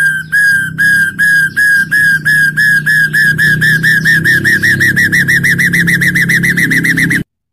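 A hill myna giving a long run of short, identical whistled notes that speed up steadily from about three to about six a second, then cut off abruptly near the end.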